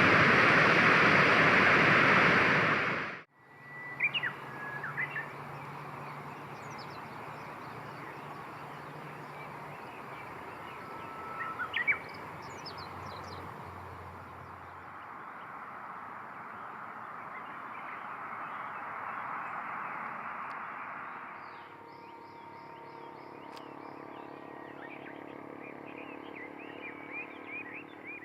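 A loud, even rushing noise for about the first three seconds, cutting off abruptly. Then scattered short bird chirps over a steady background hiss, with a change in the background about two-thirds of the way through.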